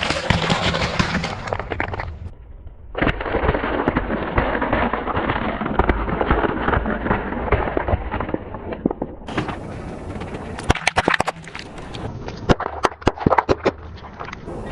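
A car tyre rolling over and crushing brittle objects: dense crunching and crackling, then a run of sharp snaps and cracks over the last few seconds, in several short clips cut together.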